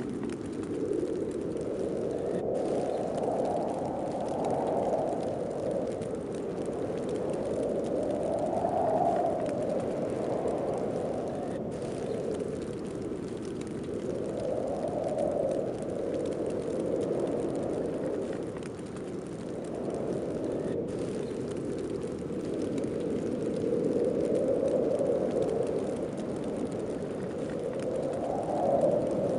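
Heavy snowstorm wind blowing, a low rushing noise that swells and eases in slow gusts every few seconds.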